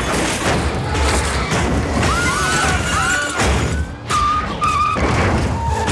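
Action-film car-chase soundtrack: a dramatic music score over repeated crashes and heavy thuds, with squealing glides in the middle and a sustained high screech a little after.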